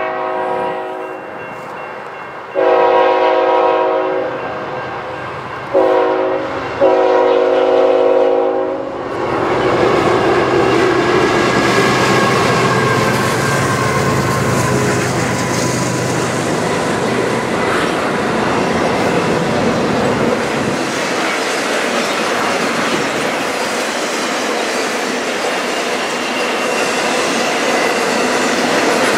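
Nathan Airchime K5HL five-chime horn on a CN ET44AC locomotive sounding the grade-crossing signal: the tail of a long blast, then a loud long blast, a short one and a final long one. Then the GE locomotives pass close by, followed by double-stack container cars rolling past with steady wheel-on-rail noise and clicking over the rail joints.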